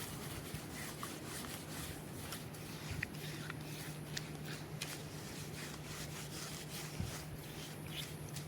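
Dishes being scrubbed by hand and rinsed in seawater: soft rubbing and scraping with scattered light clicks, over a steady low hum.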